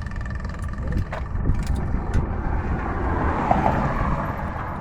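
Truck's diesel engine running with a steady low rumble, a few light clicks about a second in, and a rising hiss around three seconds in.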